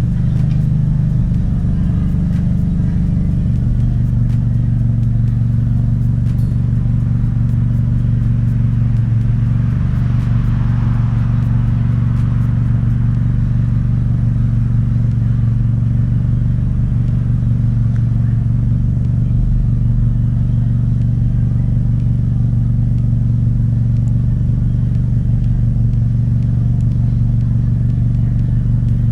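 Dodge Caliber SRT-4's loud-exhausted turbocharged 2.4-litre four-cylinder droning steadily at a constant cruising speed, one low note holding even. About ten seconds in, a hiss swells briefly over it.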